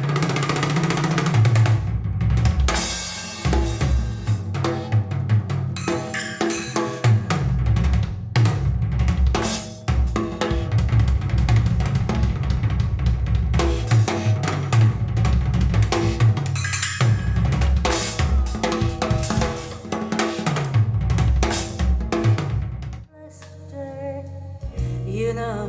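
Recorded music played over Elfton Ringo hi-fi loudspeakers: a drum kit passage with kick drum, snare and cymbals. Near the end the drums drop back and quieter pitched notes take over.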